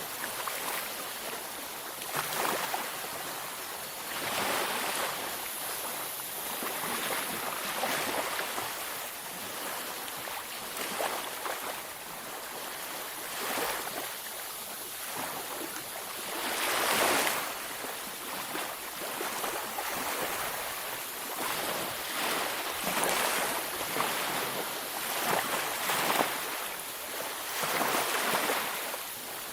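Ocean waves breaking on a beach: a continuous wash of surf that swells and falls back every few seconds, with the biggest wave about halfway through.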